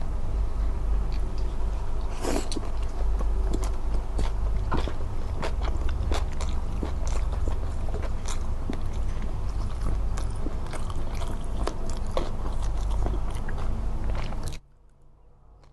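Close-miked eating sounds: a person biting and chewing food, with many small wet clicks and crunches over a heavy low rumble. It cuts off abruptly near the end.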